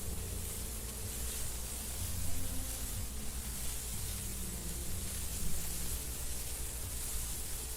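Steady wind blowing through wildflowers and grass, a continuous hiss over an uneven low rumble that swells slightly a little past two seconds in and again near five and a half seconds.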